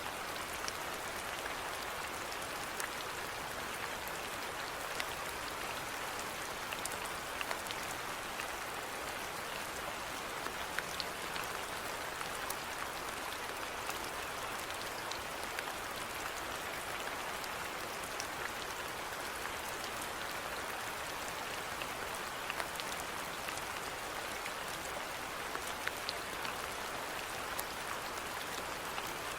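Steady rainfall: an even hiss of rain with the scattered ticks of single drops striking a surface.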